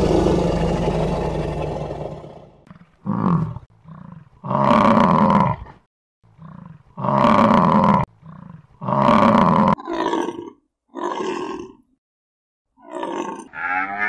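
A big cat roaring: a long roar fading away, then a bout of separate roars, the later ones shorter and grunt-like.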